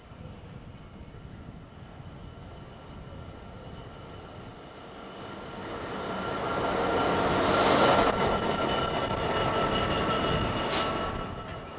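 Class 66 diesel locomotive, with its EMD two-stroke V12 engine, growing louder as it approaches hauling a container freight train. It passes loudest about eight seconds in, followed by the wagons rolling by, with a sharp click near the end.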